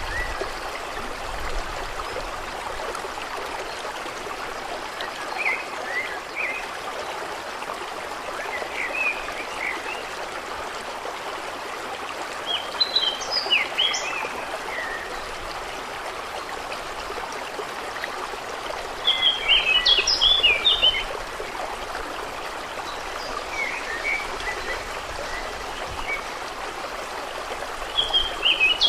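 Steady flowing water with birds singing short chirpy phrases every few seconds, the loudest bursts about halfway and two-thirds of the way through.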